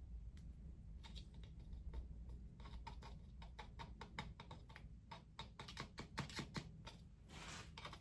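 A run of light, irregular clicks and taps of small hard objects being handled, growing quicker and denser from about five seconds in.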